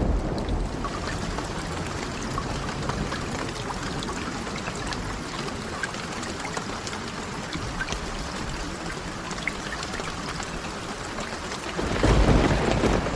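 Steady rain with scattered small clicks through it. About twelve seconds in, a loud low rumble of thunder swells up.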